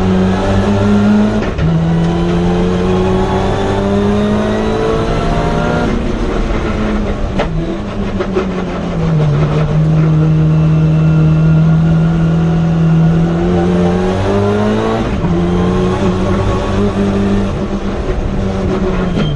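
Mitsubishi Lancer Evo IX time-attack car's turbocharged engine pulling hard, its pitch climbing and then dropping sharply at each upshift. Through the middle the engine holds a steady pitch for several seconds before climbing again.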